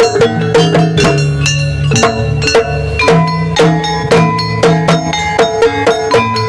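Gamelan-style music for a jaranan (kuda lumping) dance: an ensemble of ringing, pitched struck percussion and drums playing a fast, steady beat.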